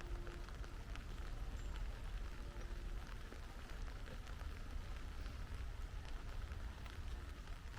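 Steady rain falling, with many individual drops ticking irregularly, over a low, steady rumble.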